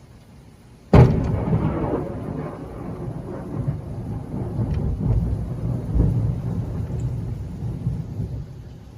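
A thunderclap: a sudden sharp crack about a second in, then a long rolling rumble that swells again midway and dies down near the end.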